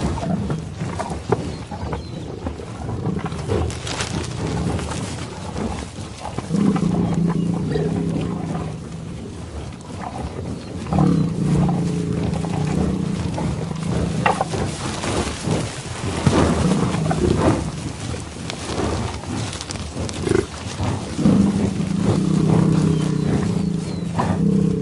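A large animal's low, drawn-out growls, three long calls each lasting a few seconds, with scuffling noise in between.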